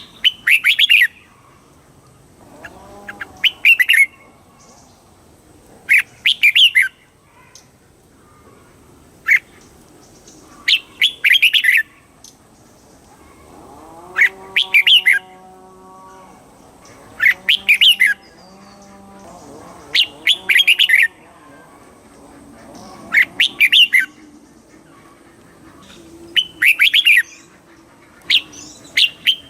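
Red-whiskered bulbul singing: short, bright, warbling phrases repeated about every two to three seconds, about ten in all. Fainter, lower drawn-out calls sound underneath in places.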